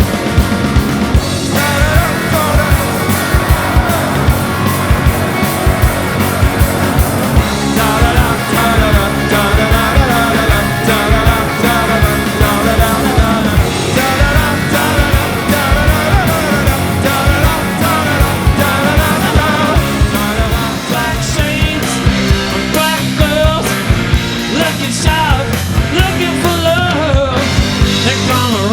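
A live rock band playing: a driving drum beat, bass and electric guitar, with a wavering lead melody line over them.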